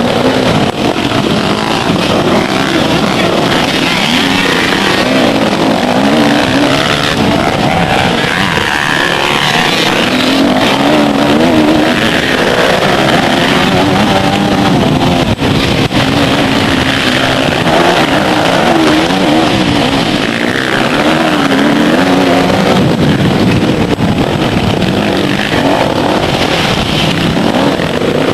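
Motocross dirt bike engines running hard, their pitch rising and falling over and over as the throttle opens and closes.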